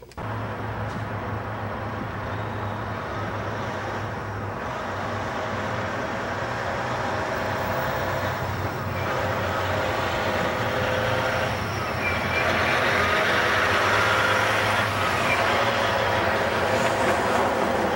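Heavy diesel semi-truck engine running, a Caterpillar C15 in a Peterbilt 387, with a steady low hum that grows gradually louder.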